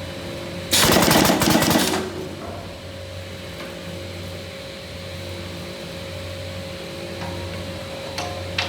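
TSJ37 automatic frame underpinner joining a corner: a loud burst of rapid clattering strokes about a second in, lasting just over a second, then the machine's steady hum with a few light clicks near the end.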